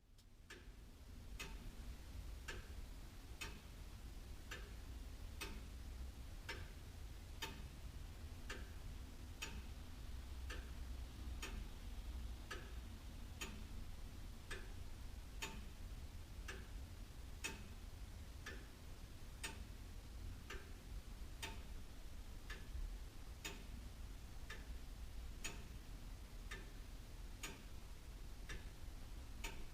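Very old William Holliwell (Liverpool) clock ticking steadily, about two ticks a second in an even tick-tock.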